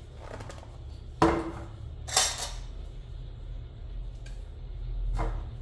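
A container of ground coffee being opened and handled: a sharp clink with a short ring about a second in, a brief scraping rustle about two seconds in, and a softer knock near the end.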